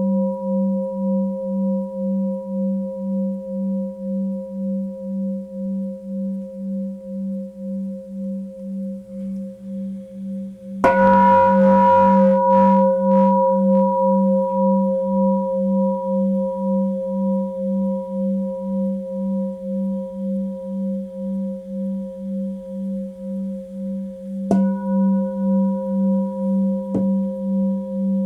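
Tibetan singing bowl ringing with a low hum and higher overtones, wavering in an even pulse of about two beats a second. It is struck again about eleven seconds in, swelling louder, and once more near the end, with a light tap just after.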